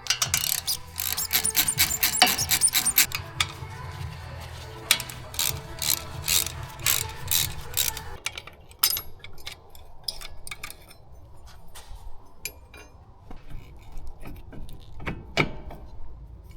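Metal hand tools working on a car's front brake caliper: a rapid run of metallic clicks and clinks in the first half, thinning to scattered single clicks later. Background music plays under the first half.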